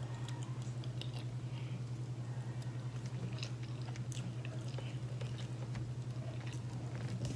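A person chewing and biting chicken close to the microphone, with scattered small clicks of mouth and fork sounds, over a steady low hum.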